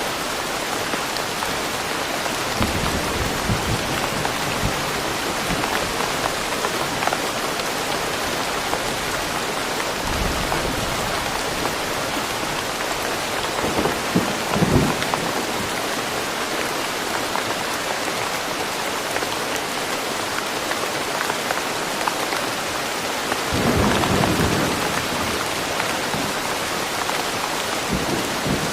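Steady rain falling in woodland. Low rumbles of thunder roll in a few times, most strongly about halfway through and again near the end.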